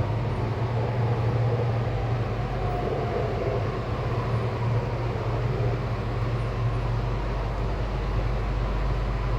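Sydney Metro driverless train (Alstom Metropolis) running, a steady low hum over an even rumble.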